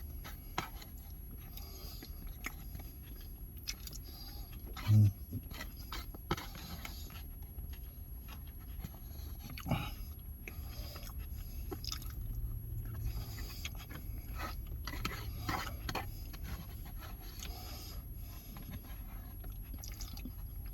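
Close-up eating sounds: chewing, with a utensil scraping and clicking against a nearly empty food plate. A short low hum about five seconds in.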